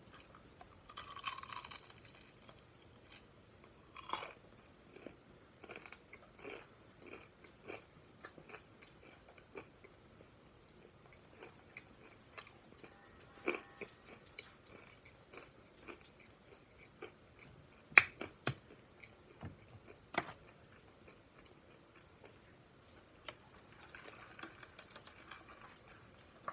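A person chewing food close to the microphone, with scattered wet mouth clicks and smacks, and a louder crackly burst about a second in.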